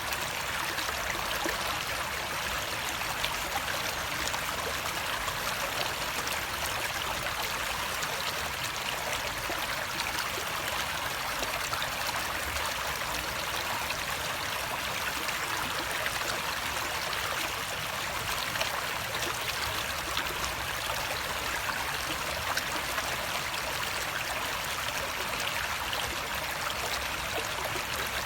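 Running water flowing steadily, a continuous rushing with fine splashing.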